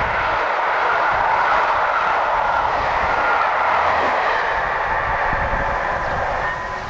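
Passenger coaches of a train passing at speed: a loud, steady rush of wheels on rail and displaced air, easing a little near the end.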